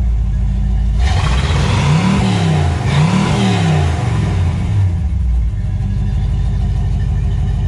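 1964 Pontiac GTO's 389 V8 burbling at idle through Flowmaster Super 44 mufflers, blipped twice in quick succession about two and three seconds in, each rev rising and falling, then settling back to a steady idle rumble.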